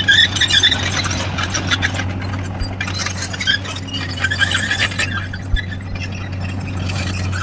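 Excavator running, with repeated high-pitched squealing and a dense clatter over a steady low hum.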